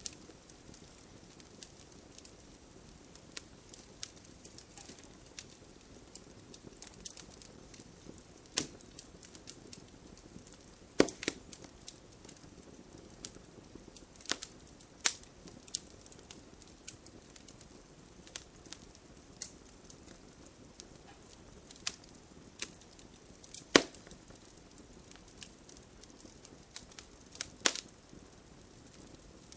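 Wood fire crackling, with irregular sharp pops and snaps over a low, steady hiss; the loudest pops come about eleven and twenty-four seconds in.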